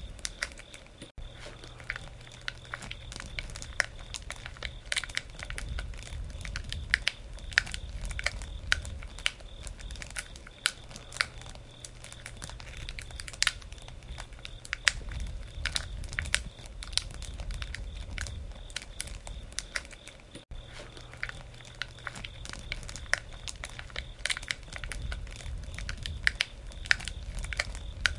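Wood campfire crackling, with irregular sharp pops and snaps a few times a second over a low steady rumble of flames.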